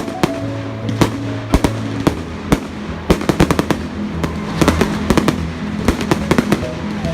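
Fireworks going off: a quick series of sharp bangs and crackles, thickest from about three seconds in.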